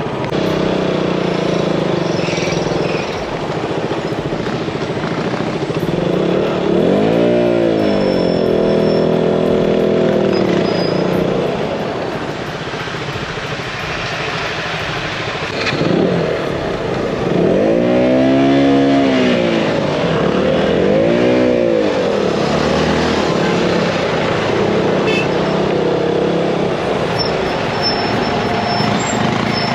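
Motorcycle engine running on the move, with road and wind noise; its pitch climbs and falls as the throttle is opened and closed, once about seven seconds in and several times later on.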